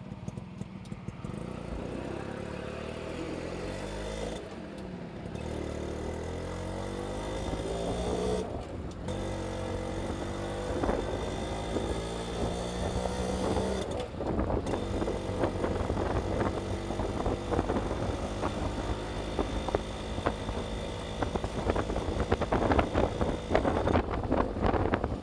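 Kawasaki HD3 125cc two-stroke single-cylinder engine accelerating through the gears, its pitch climbing and then dropping back at each of several gear changes. Wind buffeting on the microphone grows near the end as road speed builds.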